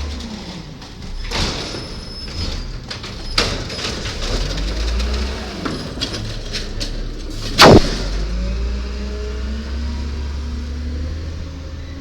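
Garbage truck at work: its engine rises and falls in pitch as the hydraulics cycle, with metallic clanks and one sharp, loud bang about two-thirds of the way through.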